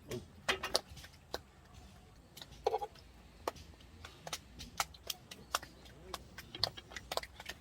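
Irregular light clicks and clinks of tableware, such as chopsticks, tongs and dishes, tapping and knocking during a meal, with a few short clinks that ring briefly.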